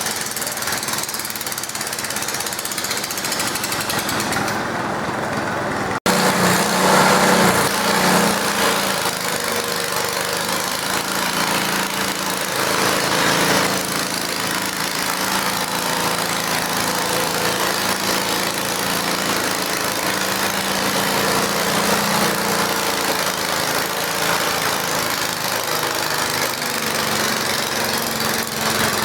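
Garden tractor engine running loudly and steadily, with a rough, knocking edge. The sound breaks off and comes back a little louder about six seconds in.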